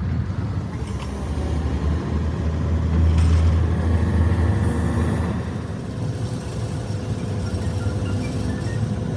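Low engine rumble that swells about three seconds in and eases off after five seconds.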